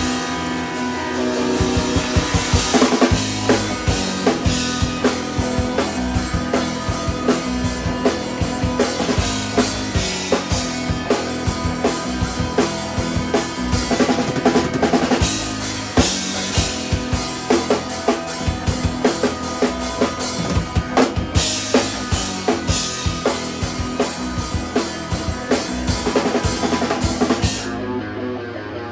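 Three-piece instrumental band playing live: a drum kit keeps a steady beat of kick, snare and cymbals under guitar and bass. Near the end the drums and cymbals drop out, leaving the guitars ringing on.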